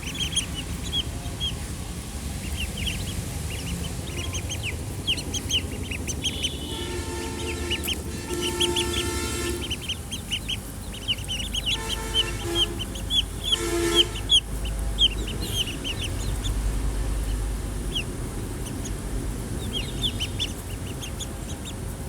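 A brood of baby chicks peeping: many short, high chirps that slur downward, overlapping one another. A lower, held pitched sound comes in twice in the middle.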